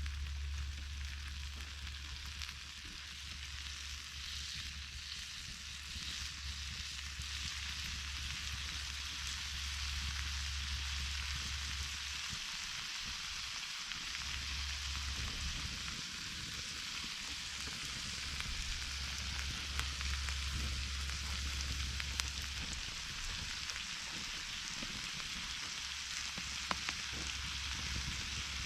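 Food frying in a pan over a campfire: a steady sizzle with a few sharp crackles.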